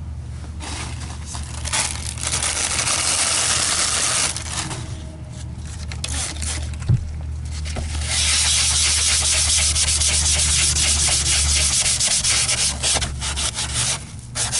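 Rubbing or scrubbing noise in long stretches with short breaks, turning into quick back-and-forth strokes near the end, over a steady low hum.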